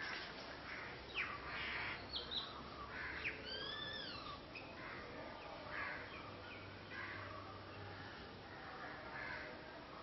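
Birds calling in the tree canopy: a string of short, sharp calls and arching, sliding notes, busiest in the first half and thinning out towards the end.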